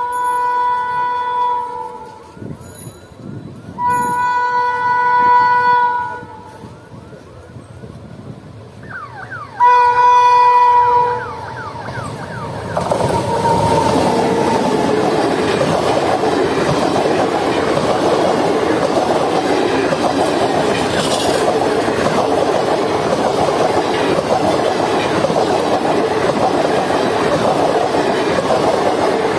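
WAP7 electric locomotive sounding its horn in three blasts of about two seconds each as it approaches, the last one dropping in pitch as the engine goes by. Then the train of ICF coaches passes at speed, a steady loud rush of wheels on rails.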